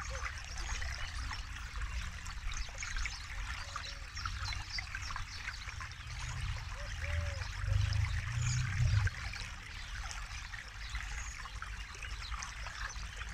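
Forest river flowing steadily, water trickling and splashing over rocks, with a deeper low rush that swells for a few seconds past the middle.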